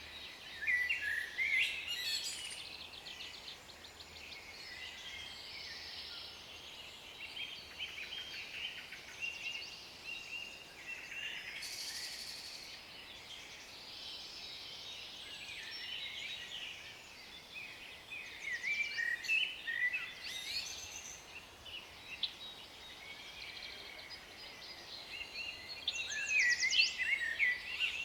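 Songbirds singing and chirping: many short trills and chirps overlapping over a faint steady background, busiest about a second in, around twenty seconds in, and near the end.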